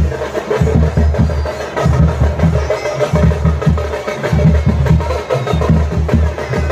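Drum-led percussion music: deep drum strokes beat out a fast, steady rhythm, with some higher-pitched melody above.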